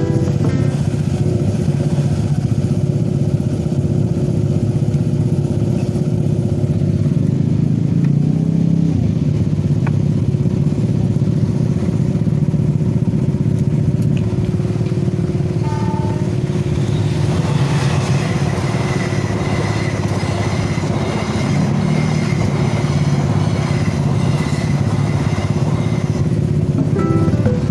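Steady running of motor vehicle engines, motorcycles among them, with a hiss that grows louder about two-thirds of the way through.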